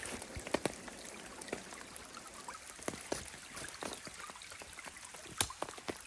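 Water trickling, with irregular sharp drips and ticks scattered through it.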